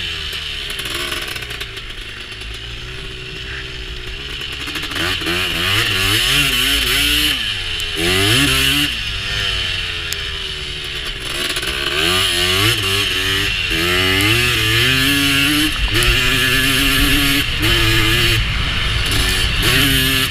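Honda TRX250R's two-stroke single-cylinder engine being ridden hard, its pitch climbing and dropping over and over with throttle and gear changes. It is a little quieter for the first few seconds.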